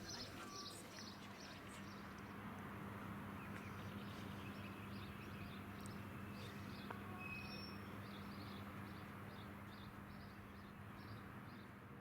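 A bird chirping in a steady series of short high notes, about two or three a second, over a steady low hum and outdoor background noise.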